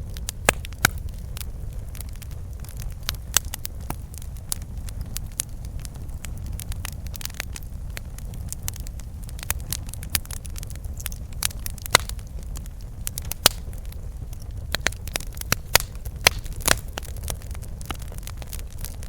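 Campfire burning: wood crackling and popping in irregular sharp snaps, with a steady low rumble of the fire underneath.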